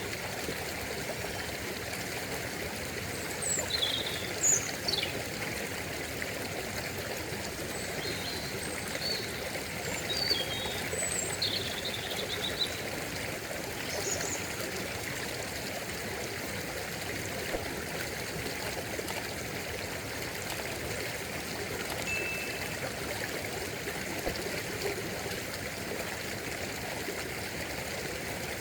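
Stream running steadily, a continuous trickling and babbling wash of water. A few short high chirps come through in the first half, and a brief high note comes later.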